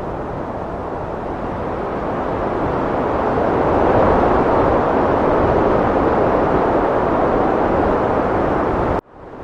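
Heavy wind blowing, swelling to a stronger gust about four seconds in. Near the end it cuts out abruptly for a moment, then fades back in.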